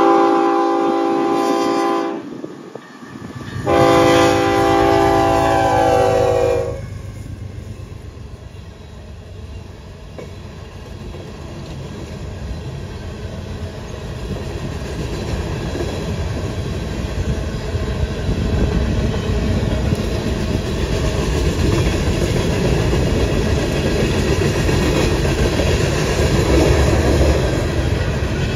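Locomotive air horn sounding two long blasts of a several-note chord, then the train rolling past, its rumble building and getting louder toward the end.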